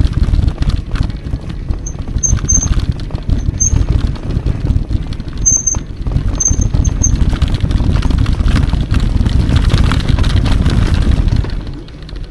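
Wind rumble on the microphone and rattling from a mountain bike ridden over a rough trail, with several short, high squeaks between about two and seven seconds in.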